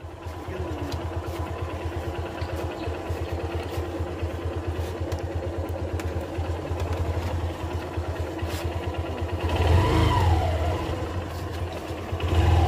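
Motorcycle engine running at low speed with a steady, even exhaust pulse as the bike rolls along. It grows louder briefly about ten seconds in and again near the end.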